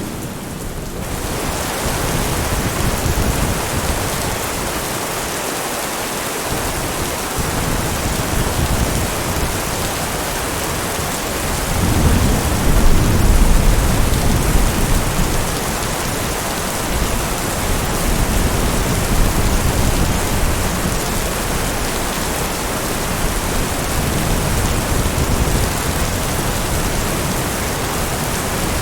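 Steady heavy rain with rumbling thunder; a long low roll of thunder swells about twelve seconds in and fades over several seconds.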